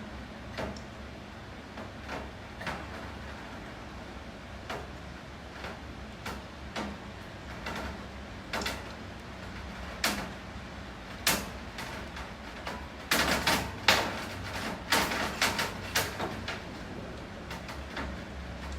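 Rain: a steady hiss with heavy drops tapping irregularly on a hard surface, the taps coming thick and fast for a few seconds about two-thirds of the way through.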